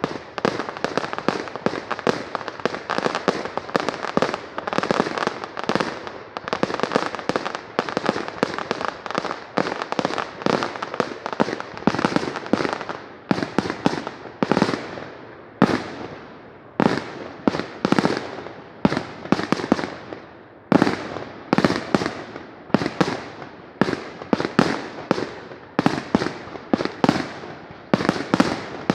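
Aerial fireworks bursting: a dense barrage of sharp bangs with crackling between them, thinning out about halfway through into separate booming bursts, one or two a second, each trailing off.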